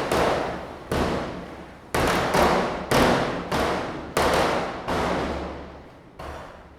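Diwali firecrackers bursting one after another, about one loud bang a second, each followed by a long echoing decay; the last burst, near the end, is fainter.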